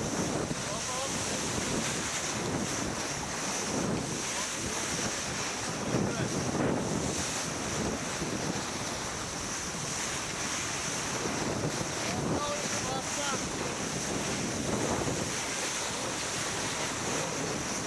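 Wind buffeting the microphone over water rushing and splashing along the hull of a sailboat under way, swelling in surges every few seconds over a steady high hiss.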